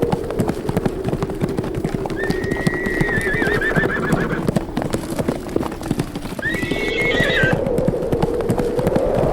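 Horses galloping, a dense clatter of hoofbeats, with two quavering horse whinnies, one about two seconds in and a shorter one near seven seconds. A steady low wind howl runs underneath.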